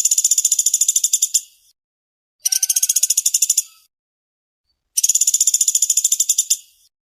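Woodpecker (pelatuk sampit or pelatuk beras) giving a fast, dense chattering trill, three times, each trill about a second and a half long with a second's pause between.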